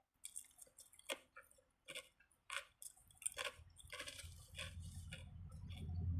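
Close-up chewing of a sandwich, a series of short wet crunchy bites and chews about every half second to second. From about halfway a low rumbling hum comes in and grows louder toward the end.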